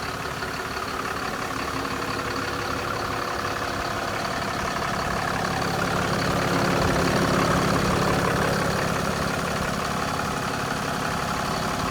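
2020 Ram 4500 heavy-duty truck engine idling steadily, growing a little louder from about six seconds in.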